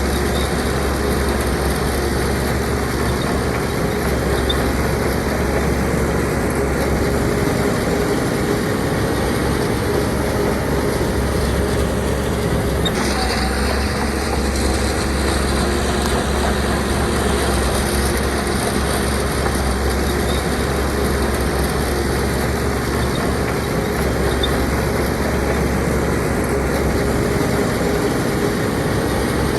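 Diesel engine of a Shantui DH17C2 bulldozer running steadily, with a slight change in its note about halfway through.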